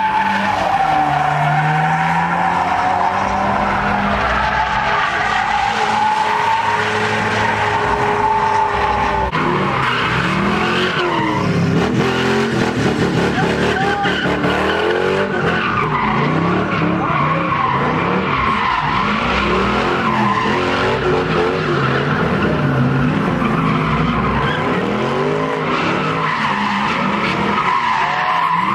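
Car engines revving up and down over and over, with tyres screeching against the pavement, typical of cars doing donuts and burnouts.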